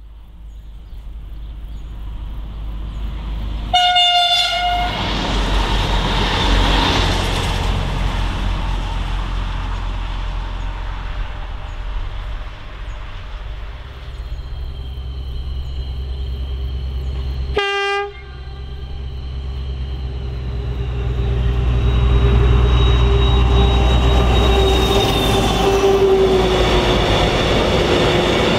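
Diesel locomotive BB 67621 approaching and passing with a freight train of steel coil wagons. Its horn sounds twice: a higher blast of about a second, four seconds in, and a shorter, lower one midway. The engine rumble grows louder as it nears, and the rolling noise of the loaded wagons takes over near the end.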